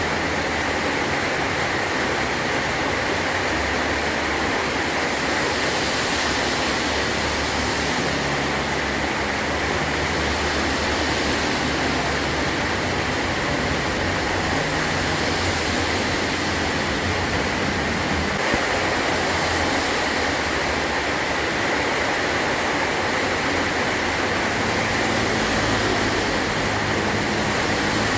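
Heavy rain drumming steadily on a metal roof.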